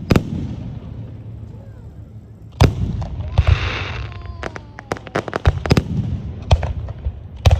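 Aerial fireworks bursting: a string of sharp bangs at uneven intervals, coming thick and fast about two-thirds of the way through, with a hissing crackle for about half a second around three and a half seconds in.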